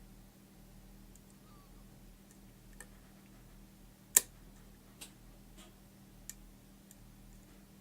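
Sparse small metallic clicks of a lock pick and tension wrench working the pins of a pin-tumbler challenge lock, with one sharp louder click about four seconds in and a few fainter ones around it.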